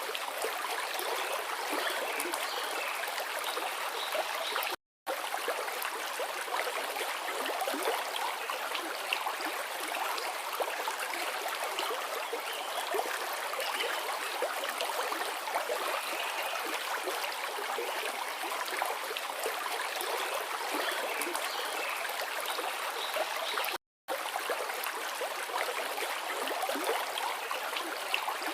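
A forest river flowing steadily, a dense rush and splash of water. It drops out to silence for a split second twice, about five seconds in and again about five seconds before the end.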